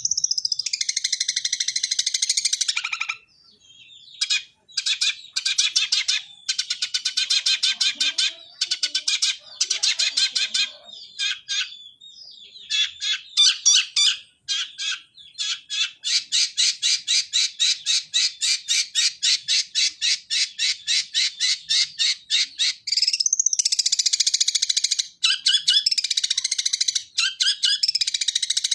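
Long-tailed shrike (cendet) singing a sparrow-like song, a mimicry of the Eurasian tree sparrow: high chirps repeated fast and evenly, several a second, in long runs with short breaks about three and twelve seconds in.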